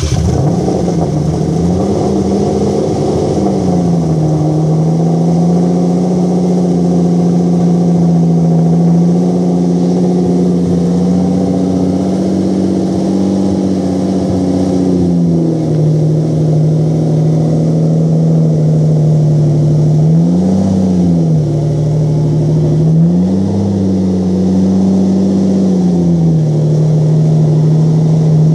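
Lamborghini Countach 5000 QV's V12 idling, freshly started, heard from behind at its exhaust. The idle speed wanders up and down, with a brief rise about twenty seconds in and a longer raised stretch a few seconds later.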